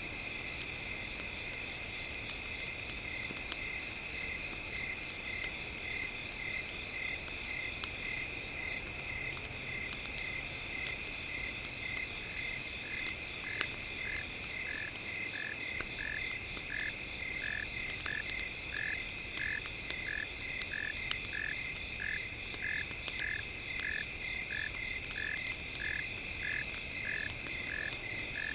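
Layered ambient sleep soundscape: a campfire crackling in faint scattered clicks under steady high ringing tones, with a short rhythmic chirping call repeating about once a second that grows stronger from about halfway in.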